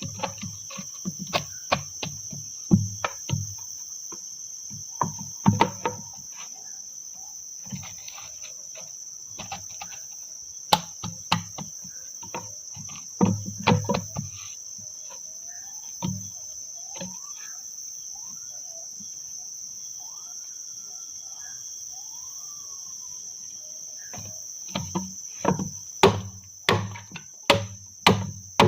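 Steady high-pitched drone of crickets or similar forest insects, over repeated sharp knocking strikes. The strikes come in bursts near the start, about halfway and near the end. In the quieter middle a bird gives short whistled notes that rise and fall.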